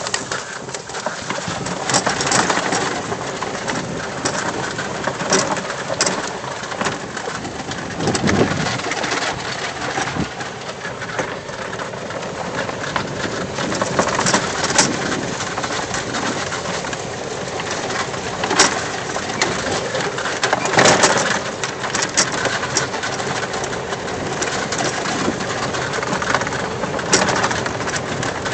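Lifted 2007 EZGo golf cart driving along a dirt trail: a steady rumble of the 22-inch tyres on the ground, with frequent rattles and knocks from the cart and loose gear in it.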